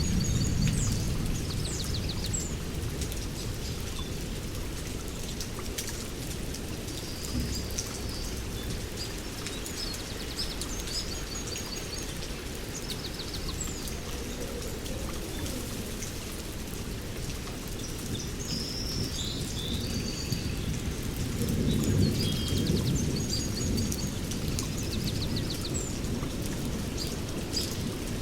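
Heavy rain falling steadily, with a low thunder rumble at the start that swells again about three quarters of the way through. Birds chirp high above the rain at intervals.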